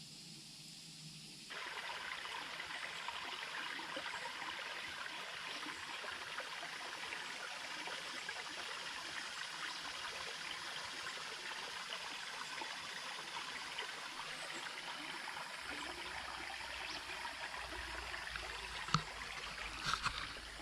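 Creek water trickling and flowing steadily, cutting in about a second and a half in, with a few sharp clicks near the end.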